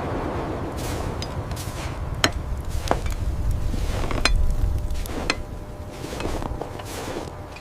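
A handful of sharp, irregular knocks and clinks over a steady low rumble.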